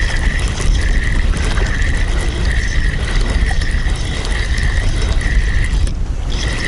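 Fishing reel being cranked to wind in a hooked crucian carp: a whirring, clicking mechanism with a pulse repeating a little faster than once a second. It breaks off briefly near the end, then carries on.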